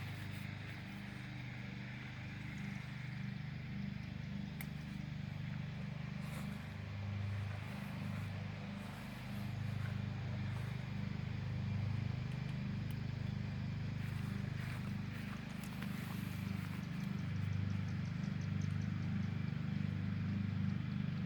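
A steady low mechanical hum, like an engine running, that swells and fades a little throughout. Faint light clicks and rustles of tent fabric and clips being handled sit over it.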